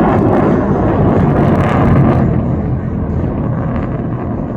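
Jet noise from the Blue Angels' formation passing overhead: a loud, even rumble that eases off gradually after about two seconds.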